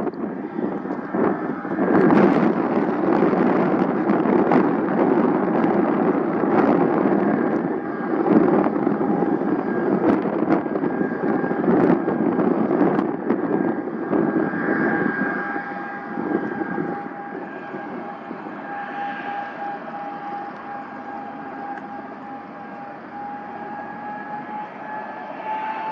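Aircraft engine noise with wind buffeting the microphone; from about halfway a steady jet whine appears and slowly rises in pitch as the aircraft approaches.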